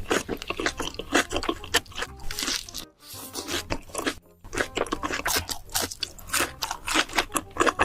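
A person chewing crunchy food close to the microphone: rapid, crisp crunches one after another, with brief pauses about three and four and a half seconds in.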